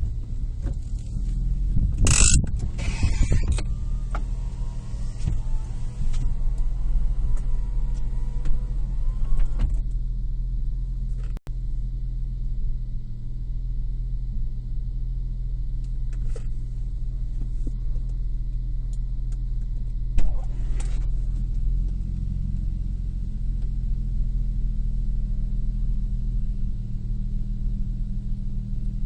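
2002 Nissan Maxima's 3.5-litre V6 engine running at a steady speed with a low, even hum. A brief louder noisy rustle or clatter comes about two seconds in.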